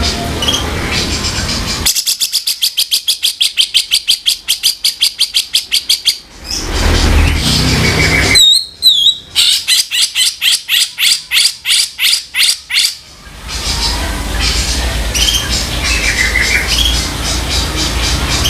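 Cucak jenggot (grey-cheeked bulbul) giving its harsh, rasping 'kasaran' call: two long rapid rattles of about eight strokes a second, split by a short whistled note, with softer chirps around them.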